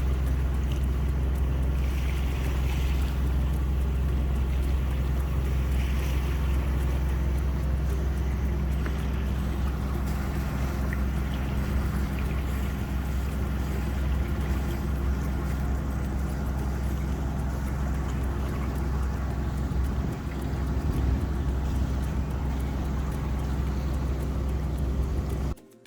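A sailing yacht's inboard diesel engine running steadily under way: a constant low drone.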